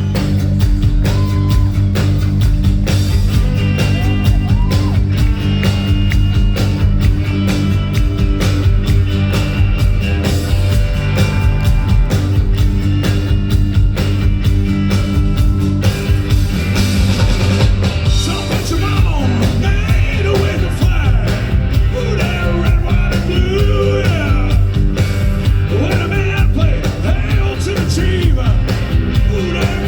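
Rock band playing live, with a steady drumbeat over held bass notes; a voice starts singing about halfway through.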